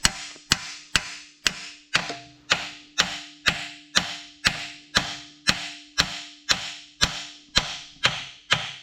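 A hammer striking metal in a steady rhythm, about two blows a second, with a steady ringing tone from the struck part sounding under the blows.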